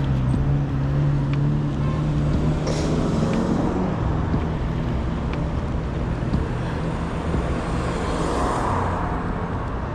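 Road traffic: a motor vehicle's engine running close by with a steady low hum, strongest for the first few seconds and fading after about four seconds, over general traffic noise.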